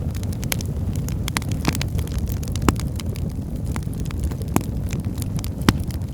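Wood fire burning in a fireplace: a steady low rumble of flames with frequent crackles and pops from the burning logs, two louder pops near the middle and near the end.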